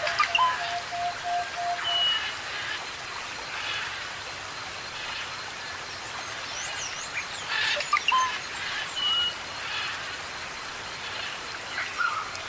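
Forest birds calling over a steady hiss like rain: a long level whistle through the first two seconds, short high whistles, quick rising and falling notes, and brief chattering calls.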